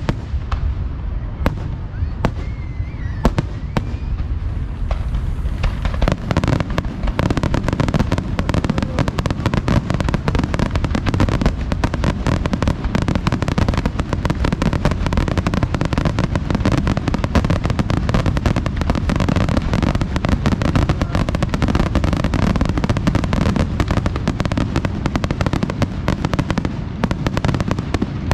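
Aerial fireworks exploding close by: separate bangs for the first few seconds, then from about six seconds in a dense, continuous barrage of rapid bangs and crackling.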